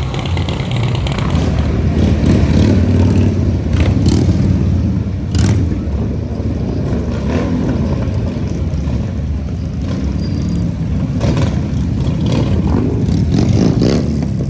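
Motorcycle engine revving hard and running at high revs through a burnout, with a few short sharp clatters.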